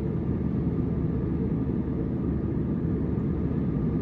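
Airbus A319 airliner cabin noise during the climb: a steady, low, even roar of engines and airflow heard from inside the economy cabin.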